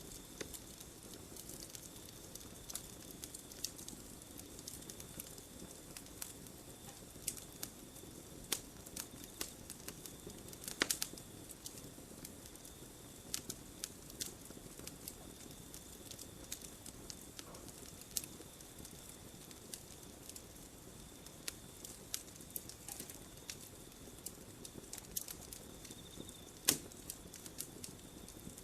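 Campfire wood crackling and popping in irregular sharp snaps, the loudest about 11 seconds and 27 seconds in.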